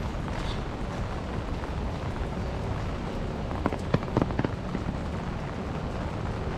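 Steady rain falling on wet pavement, with a quick run of four or five sharp taps a little past halfway.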